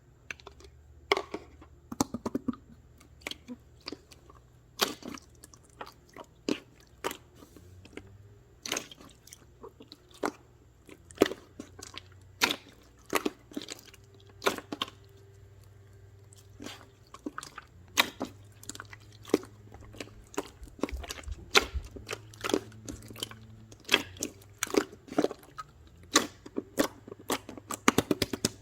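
Close-up crunchy chewing: a run of sharp, irregular crunches, sometimes several in quick succession.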